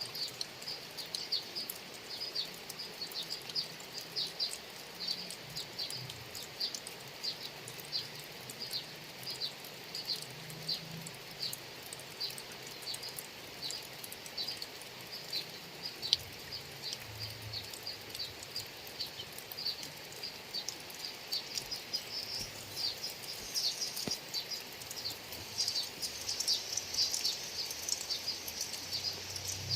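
Steady rain falling on rice fields, with a small animal's high chirp repeated a few times a second throughout, growing busier and louder near the end.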